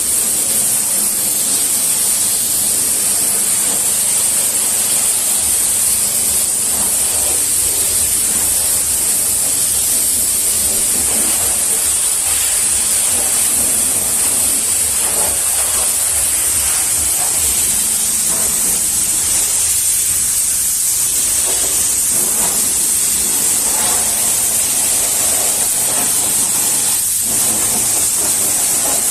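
Pressure washer spraying water: a loud, steady hiss.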